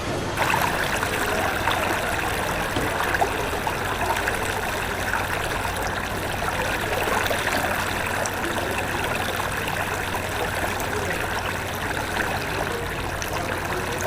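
Fast floodwater rushing steadily, a loud, even wash of water noise.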